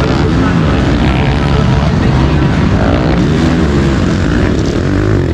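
Several motocross bike engines running hard over a deep steady rumble, their pitch rising and falling as they rev through the gears and swing past, a few times in a row.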